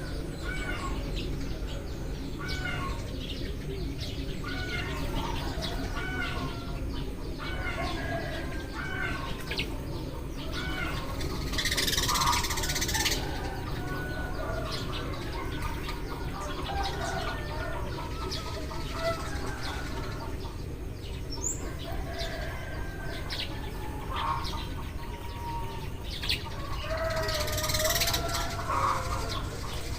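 A flock of Eurasian tree sparrows chirping continuously, many short overlapping chirps. Two louder rustling bursts come about twelve and twenty-eight seconds in, over a steady low background rumble.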